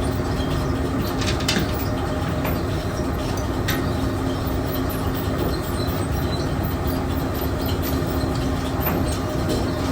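Steady low rumble of running machinery with a constant hum and a few light clicks.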